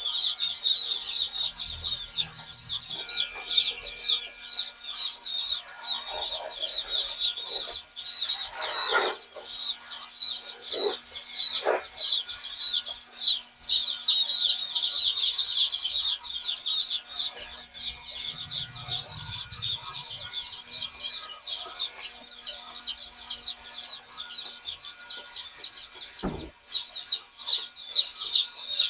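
A brood of young chicks peeping without pause: many short, high, falling peeps overlapping into a dense chorus, with a few brief knocks partway through.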